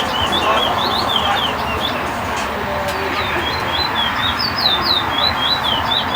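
Caged seed finch singing rapid runs of short, sharply falling whistled notes, pausing briefly partway through, over a steady background murmur.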